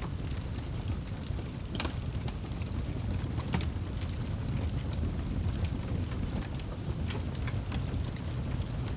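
Crackling fire with rain: irregular sharp pops and snaps, one louder snap about two seconds in, over a steady low rumbling wash.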